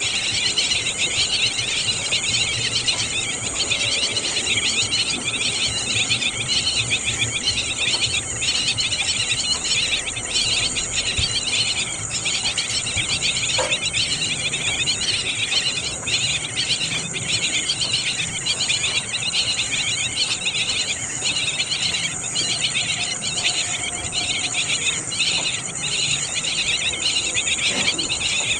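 Small birds chirping in a dense, rapid high twitter, with brief pauses about once a second.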